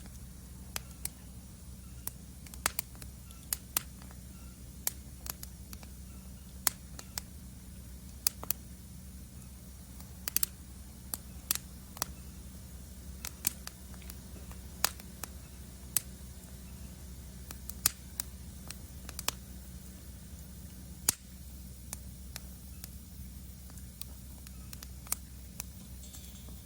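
Wood fire in a fire stand crackling, with irregular sharp pops and snaps over a steady low rumble.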